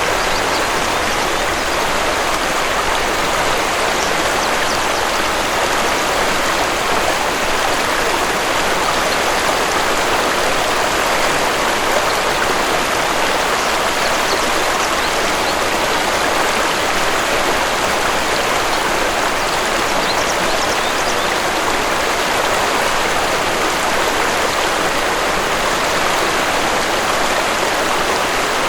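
Waterfall: steady, unbroken rush of falling water, an even hiss strongest in the middle and upper range.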